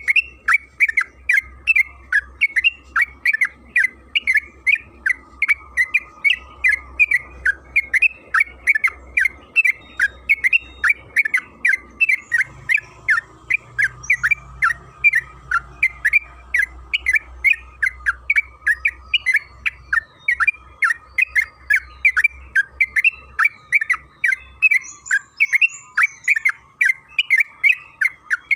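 Sooty-headed bulbul (trucukan) singing a long, unbroken run of short chirping notes, about three a second.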